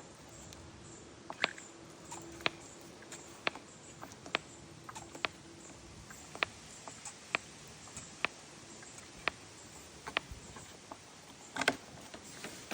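Light, sharp clicks about once a second, a dozen or so, from the Husqvarna 150 BT backpack blower being readied for a cold start. The clicks fit pressing the blower's fuel purge bulb. A louder burst of clatter comes near the end.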